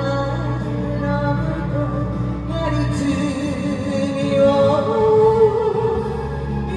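A song in Japanese with a singer holding long, wavering notes over instrumental accompaniment.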